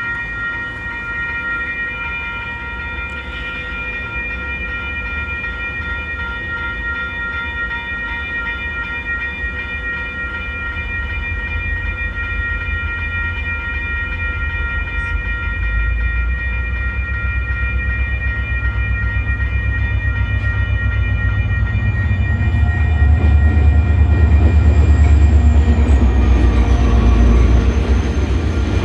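Grade-crossing warning bell ringing steadily as a freight train approaches. The low rumble of the diesel locomotive builds from about halfway and is loudest near the end as the train rolls through the crossing.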